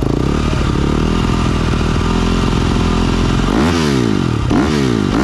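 Motocross bike engine running steadily, then revving up hard about three and a half seconds in, with the pitch climbing and dropping back a couple of times as it shifts up through the gears.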